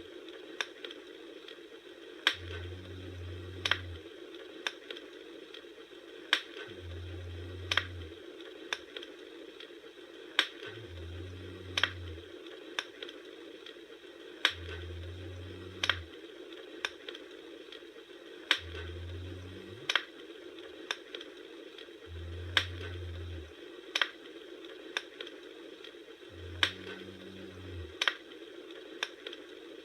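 Wood fire crackling, with irregular sharp pops, roughly one or two a second, over a soft steady hiss. A low hum swells in and fades about every four seconds.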